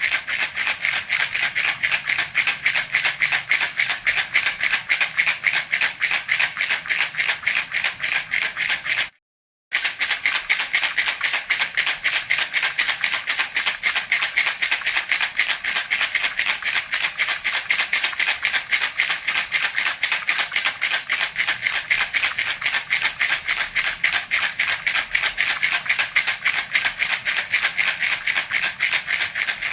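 Baby's rattle (jhunjhuna) shaken in a fast, even rhythm, a continuous rapid clatter. It cuts out completely for about half a second around nine seconds in, then carries on as before.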